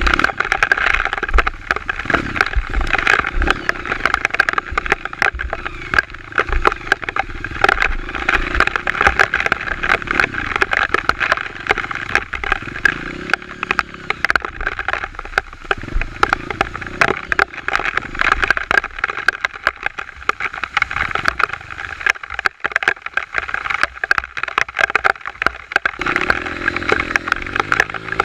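Honda CRF230 dirt bike's single-cylinder four-stroke engine running under way, its pitch rising and falling with the throttle, under a dense, crackling noise that runs throughout.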